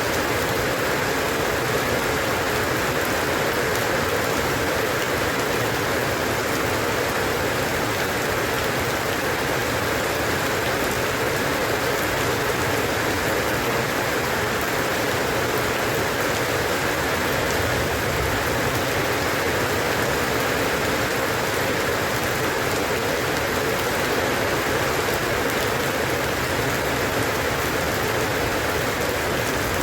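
Steady rain falling on a surface, an even hiss of drops with no pauses or single impacts.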